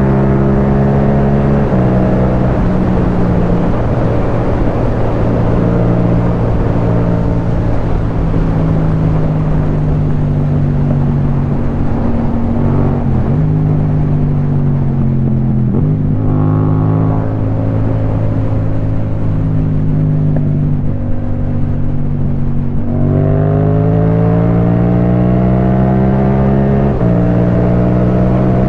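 Yamaha MT-07's parallel-twin engine running through an aftermarket Akrapovic titanium exhaust while riding, its pitch shifting with throttle and gear changes, with a strong rise in revs about two-thirds through.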